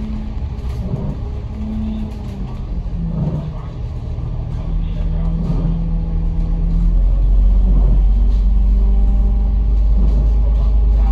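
Bus running on the road: a low engine rumble with a steady hum that changes pitch a few times and grows louder about seven seconds in.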